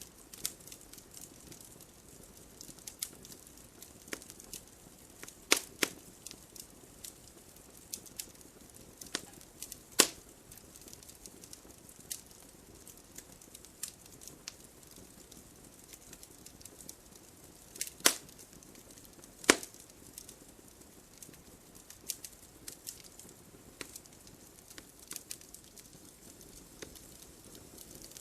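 Logs burning in a fireplace, crackling steadily with a low hiss and scattered sharp pops, a few of them much louder.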